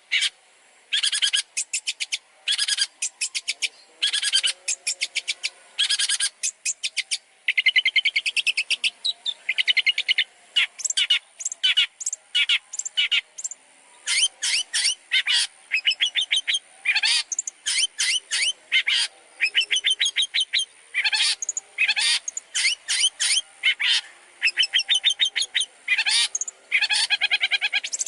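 Long-tailed shrike (cendet) singing a fast, varied song of rapid repeated chattering notes in short phrases with brief gaps, packed with mimicked phrases (isian).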